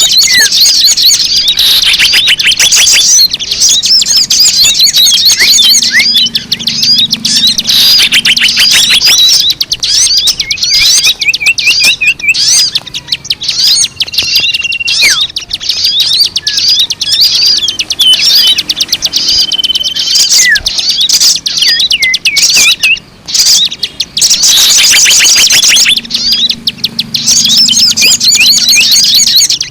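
Bird-lure recording of small birds chirping and trilling rapidly, many quick calls overlapping, loud throughout, with a brief break about three-quarters of the way through.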